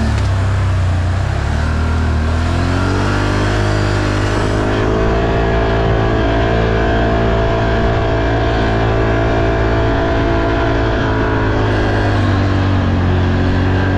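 ATV engine running under load on a muddy trail ride. Its pitch climbs about three seconds in and holds steady, then dips briefly near the end before rising again.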